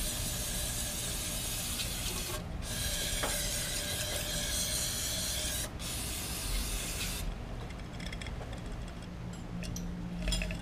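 Aerosol can of carburetor cleaner spraying in three long hissing bursts, cleaning out an engine's oil filter housing, followed by a few faint clicks.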